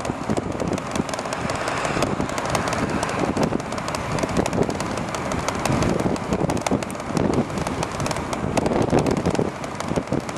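Wind buffeting the microphone on a moving e-bike, a dense rushing noise full of irregular crackling clicks and rattles.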